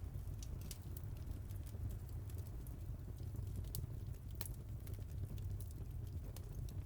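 Wood fire crackling and popping, with irregular sharp snaps over a steady low rumble of the flames; one louder pop about four seconds in.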